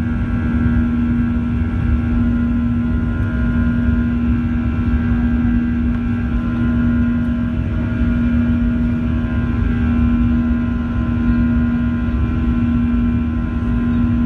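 Boeing 737-800's CFM56 jet engines heard from inside the passenger cabin: a steady drone with a strong constant hum over a low rumble and rush of air.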